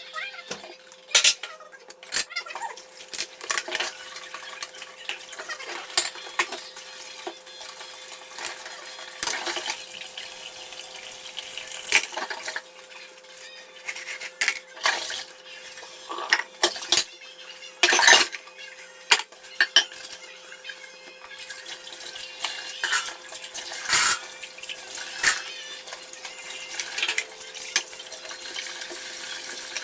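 Dishes and cutlery clattering and clinking in a kitchen sink as they are washed, with water running at times; the clinks come irregularly, the loudest about 18 seconds in.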